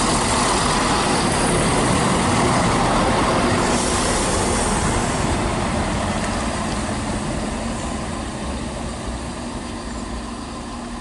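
Class 170 Turbostar diesel multiple unit running into the platform, its underfloor diesel engines and wheels on the rails loudest for the first few seconds, then fading as it slows to a stop.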